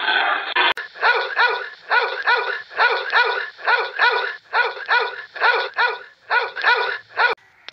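A dachshund puppy yapping at its own reflection in a mirror: a quick string of short, high-pitched yips, many in pairs, starting just under a second in and stopping shortly before the end.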